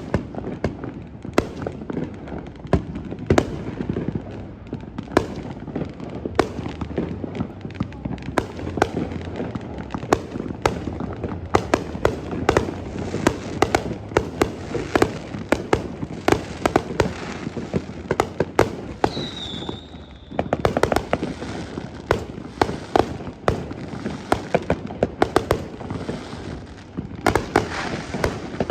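Fireworks display: a dense, continuous run of bangs and crackling over a steady rumble, with a short whistling tone about nineteen seconds in and a brief lull just after.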